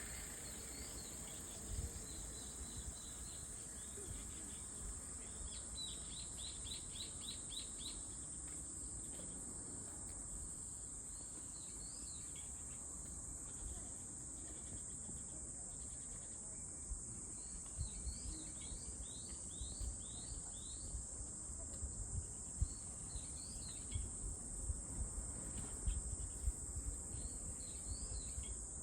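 Insects droning in one steady high note. A bird calls over it in quick runs of short rising chirps, about eight in a row near the start and another run midway, with scattered low bumps toward the end.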